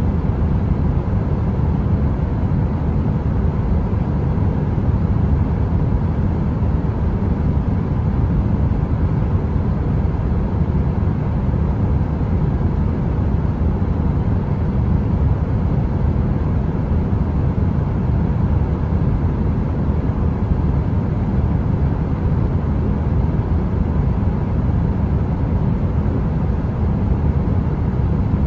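Space heater running with a steady, deep rushing hum like brown noise, with a faint even tone over it.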